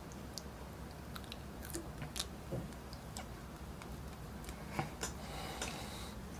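Quiet chewing of french fries, with scattered soft clicks and mouth noises.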